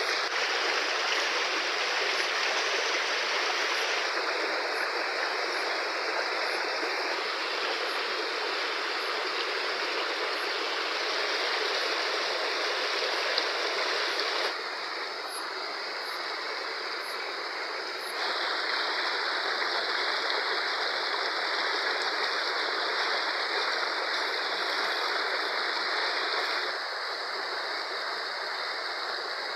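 Fast-flowing river rushing steadily, a continuous hiss of water. The level dips slightly about halfway through, returns, and dips again near the end.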